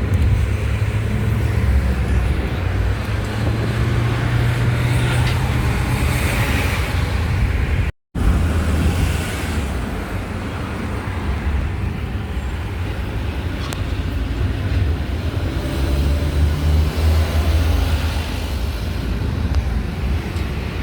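Steady road-vehicle noise with a loud low rumble, like a car driving or passing traffic, in two takes joined by a sudden cut about eight seconds in.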